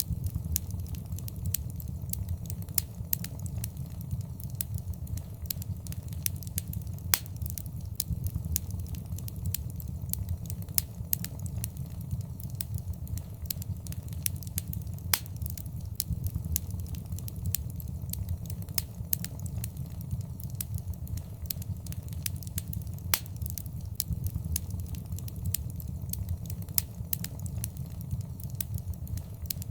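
Wood fire crackling in a fireplace: a steady low rumble of flames with frequent sharp snaps and pops, a few of them louder.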